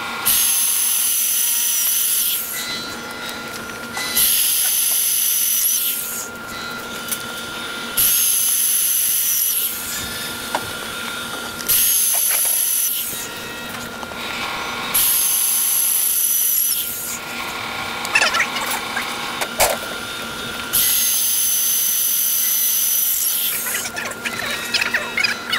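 Power drill fitted with a porcelain tile drill bit, drilling hard tile in six bursts of about two seconds each. Each burst is a high-pitched grinding whine, with a steady lower hum in the gaps between.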